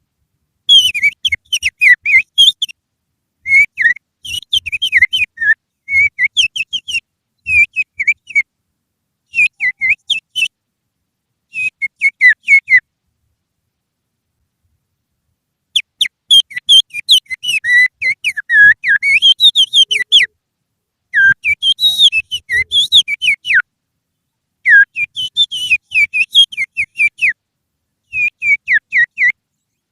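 Finger whistling imitating the song of an oriental magpie-robin: quick runs of high chirping, sliding notes in short phrases, with a pause of about three seconds near the middle.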